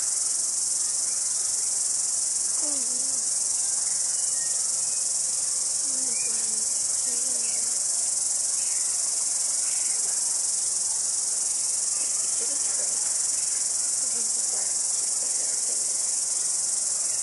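Cicadas singing: a steady, unbroken high-pitched buzz at an even level.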